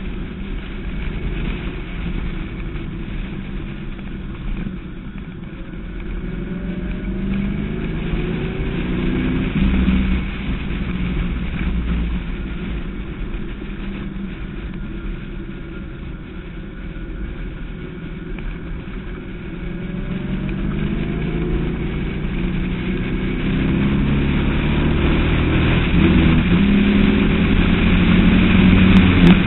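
Westfield SEight's V8 engine running on track, heard from the open cockpit with wind rushing past; the revs climb and drop through the gears, and it gets louder over the last several seconds.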